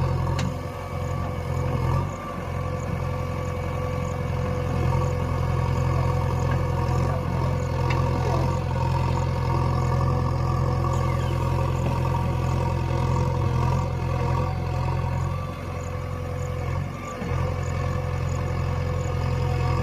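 JCB 3DX backhoe loader's diesel engine running steadily while digging. Its low note dips briefly about two seconds in and again a few seconds before the end.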